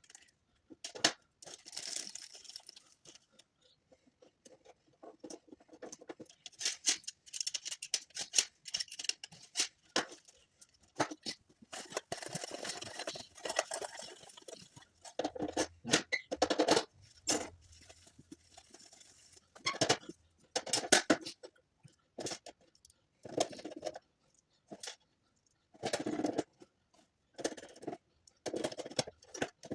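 Hands handling and working on small hard objects: irregular clicks, taps and short scrapes, with a few longer rustling, scraping stretches.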